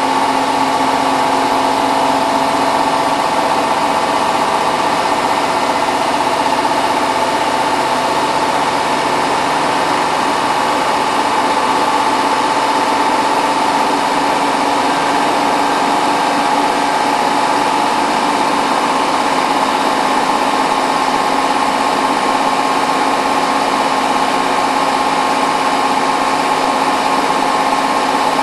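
Hotpoint WT960 washing machine in its 1600 rpm final spin: the drum and motor running at a steady high speed, with a constant whine over a dense rushing hum.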